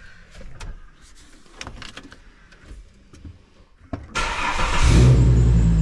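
A few light clicks, then about four seconds in the Holden VY Calais's 3.8 V6 cranks, fires straight up and settles into a steady idle. A high belt squeak runs over the idle: the drive belt is wet with coolant spilled on it earlier.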